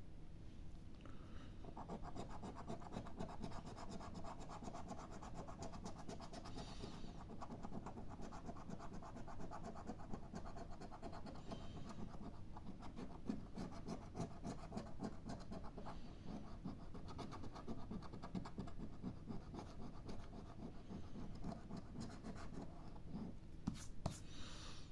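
A 'Mission Nature' scratch-card ticket being scratched off, a fast, continuous faint scraping that starts about a second and a half in.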